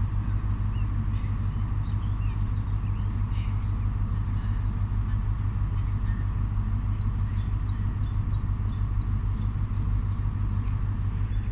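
Class 43 HST power car idling at the platform: a steady deep engine hum with a faint steady whine above it. A small bird sings a quick run of high chirps over it for a few seconds in the second half.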